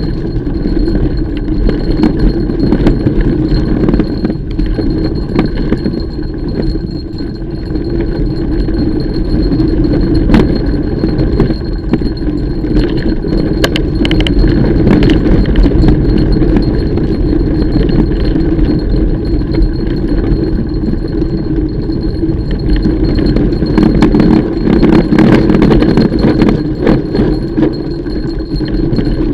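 Mountain bike being ridden over a trail: a loud, continuous rumble of tyres and jolting, with frequent metallic rattles and clicks from the bike.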